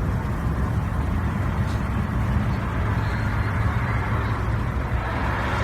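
A steady low rumble under a rushing, pouring noise as fresh 5W-30 motor oil is poured from a 5-quart jug into the engine's oil filler.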